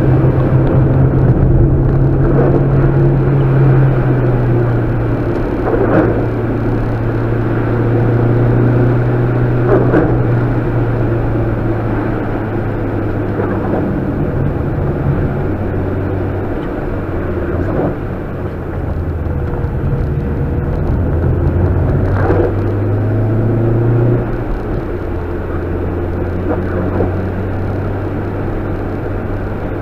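A Mitsubishi Lancer Evolution's turbocharged 4G63 four-cylinder engine heard from inside the cabin, running steadily at moderate revs with its pitch slowly sagging and climbing as the throttle changes. Late on, the revs drop suddenly to a lower steady note.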